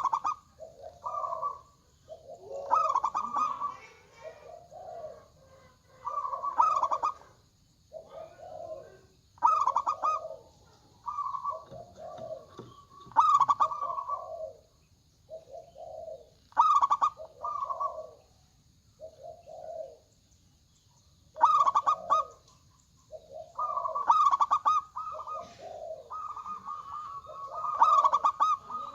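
Zebra doves (perkutut) cooing, phrase after phrase with short gaps, calls at a lower and a higher pitch overlapping as the birds answer one another.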